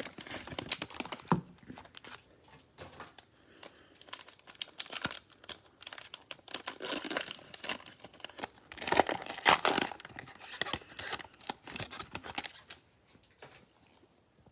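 Cellophane wrapper of a trading-card cello pack crinkling and tearing as it is opened by hand, in irregular bursts that are loudest about nine seconds in and stop near the end.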